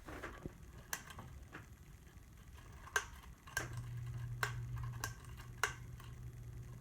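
Harbor Breeze Ocracoke ceiling fan: scattered light clicks and ticks, with a low steady motor hum coming in a little past halfway.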